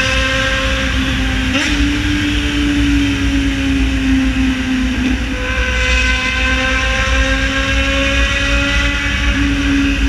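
Yamaha XJ6 Diversion's 600 cc inline-four engine running loud at a steady cruise, with a low rumble beneath it. Its pitch drifts slowly and steps a few times with throttle changes.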